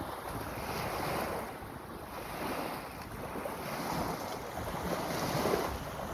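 Wind buffeting the microphone over gently lapping lake water, swelling and easing in slow waves.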